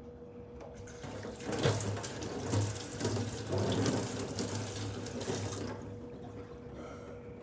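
Water running for about four and a half seconds, starting about a second in and stopping abruptly, with a water-wetted whetstone in use for sharpening.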